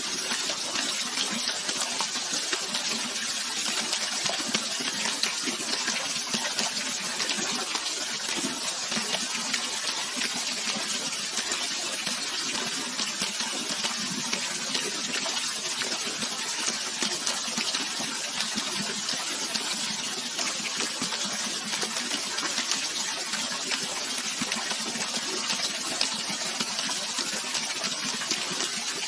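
Running water rushing and splashing steadily, a constant bright hiss with fine spattering ticks and no break.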